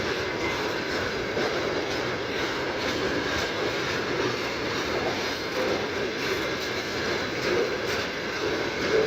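Freight train passing close by, its wagons rolling over the rails with a steady, continuous wheel-and-rail noise and faint irregular knocks.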